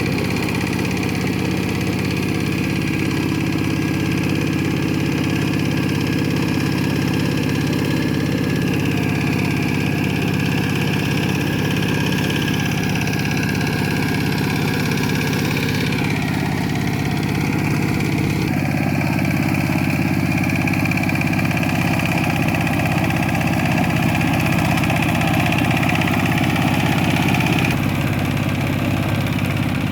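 Kubota K700 tractor's diesel engine running steadily, its tone shifting slightly about halfway through and again near the end.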